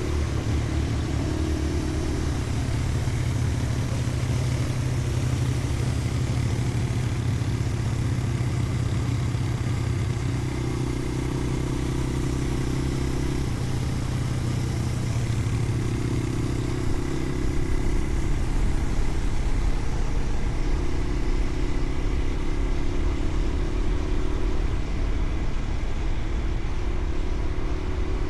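Motorcycle engine running steadily under way, with road and wind noise. The engine note shifts and grows a little louder about two-thirds of the way through.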